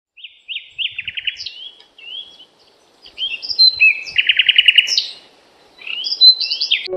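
Songbirds calling: short rising chirps and two rapid trills, one about a second in and a louder one around four to five seconds in.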